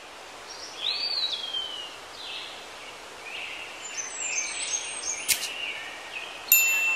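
Wild songbirds singing, with repeated rising and falling chirps over a steady outdoor hiss. There is a sharp click about five seconds in, and a sudden bright tone starts near the end.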